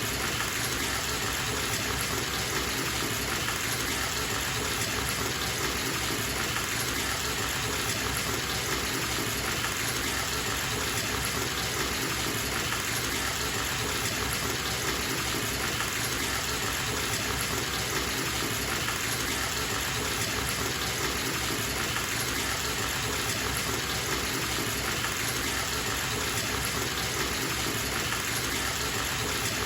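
Bathtub tap running full, water gushing steadily into the tub.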